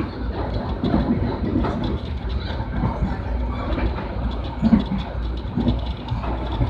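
Train running on the rails: a steady low rumble with irregular clatter and knocks from the wheels and carriages.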